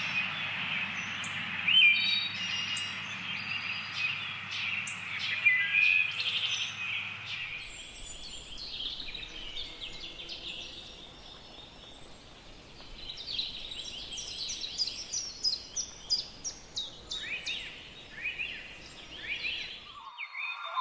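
Wild birds chirping and singing, many short calls and trills overlapping over a steady background hiss. The background changes abruptly about a third of the way in.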